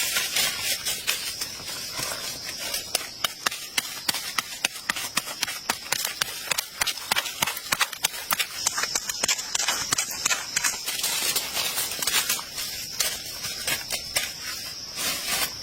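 A stream of irregular sharp clicks and crackles, with a steady high insect drone that grows louder about halfway through and again near the end.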